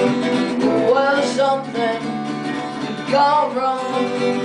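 Acoustic guitar strummed in a steady song, with a man's singing voice rising over it about a second in and again near three seconds.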